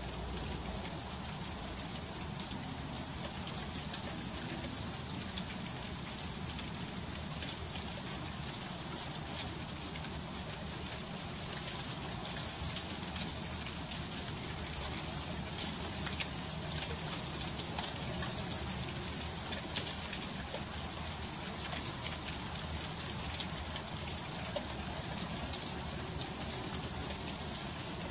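Freezing rain falling steadily in an ice storm: a continuous hiss with many fine ticks of drops and ice pellets striking surfaces.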